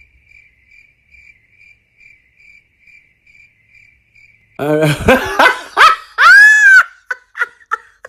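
Faint cricket chirping sound effect, an even chirp repeating about two to three times a second. It stops about four and a half seconds in, when a loud voice cuts in with its pitch swooping up and down, followed by a few short blips.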